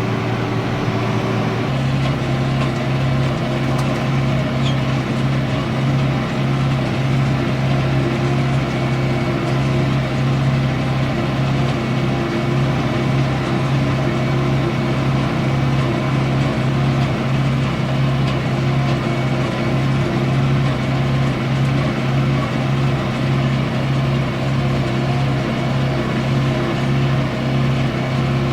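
Tractor engine running steadily, heard from inside the cab. The engine note shifts to a slightly different speed a little under two seconds in, then holds.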